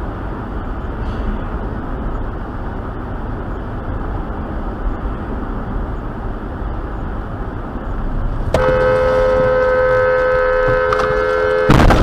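Steady road noise of a moving vehicle. About two-thirds of the way in, a car horn sounds in one long blast for about three seconds, and near the end a loud sudden impact breaks in: the collision.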